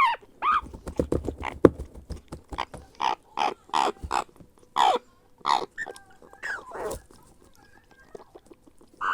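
Grey parrot chick giving repeated short begging calls, each falling in pitch, about two a second, with a run of quick clicks in the first two seconds.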